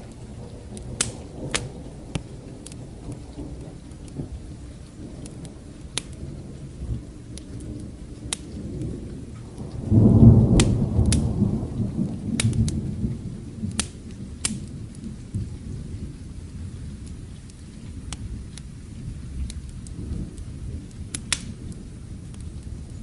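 Thunderstorm with steady rain and low rolling thunder; about ten seconds in a loud thunderclap breaks and rumbles away over several seconds. Scattered sharp crackles of a wood fire pop throughout.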